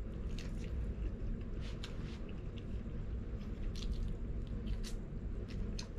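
A person chewing crispy fried chicken: wet, squishy mouth sounds with many small scattered crackles.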